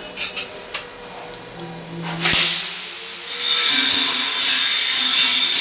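A few light clicks, then about two seconds in a sudden rush of water that settles into a loud, steady hiss: a newly installed toilet being flushed.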